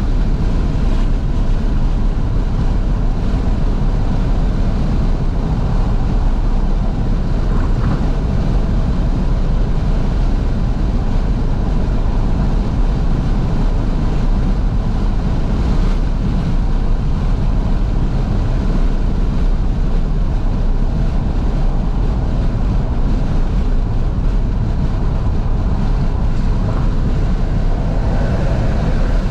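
Steady wind rush through fully open windows mixed with road and engine noise inside a moving 2012 Fiat 500S, a loud, even low rumble with no breaks.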